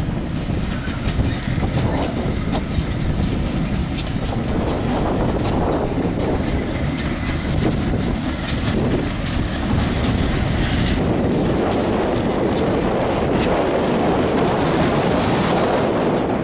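Heritage charter train rolling past, with a steady rumble and many sharp clicks from its wheels over the rail joints, growing louder toward the end.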